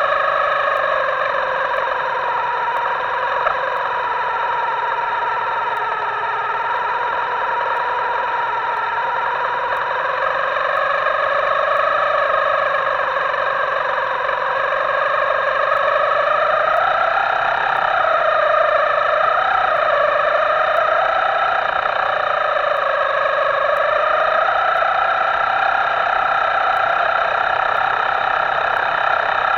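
Himoto RC boat's electric motor whining steadily, its pitch sagging and rising slowly with the throttle.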